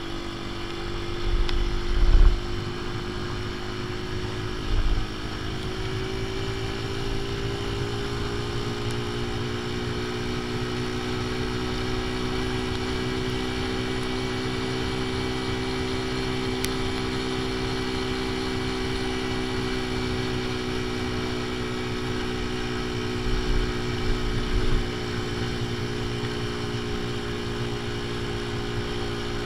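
AJS Tempest Scrambler motorcycle engine running at a steady cruise with its ignition timing set half advanced, rising slightly in pitch about five seconds in and then holding. Brief low rumbles come through a couple of seconds in, around five seconds and near the end.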